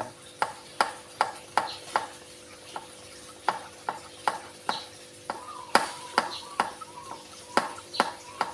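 Hand trigger spray bottle squeezed again and again, about two to three quick spritzes a second, spraying disinfectant onto a bird cage.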